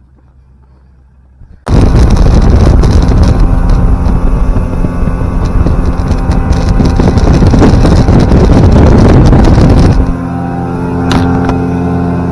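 Newly fitted outboard motor driving a small boat on a test run, cutting in abruptly about two seconds in, loud and rough with a rushing noise over it; near the end it drops to a quieter, steadier engine note.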